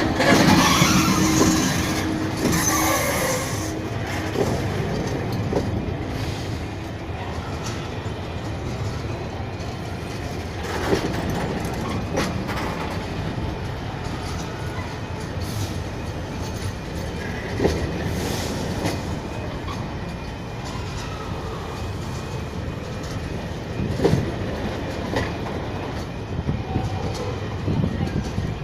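A train passes slowly over a level crossing, with a steady rolling rumble. The wheels squeal high-pitched for the first few seconds, and a few sharp clunks come from the wheels over the rails.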